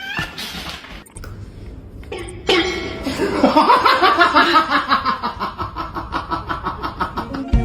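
Laughter: a long run of rapid, even ha-ha pulses, about five a second, that starts about two and a half seconds in and slowly falls in pitch.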